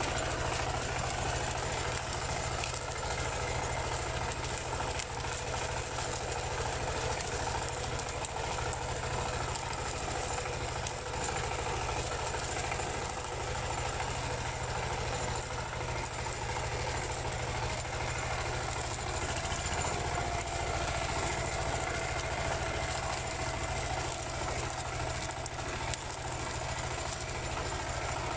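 Single-cylinder Dongfeng diesel engine of a two-wheel paddy tractor running steadily with a hard, knocking beat while working the field. Its pitch lifts slightly about two-thirds of the way through.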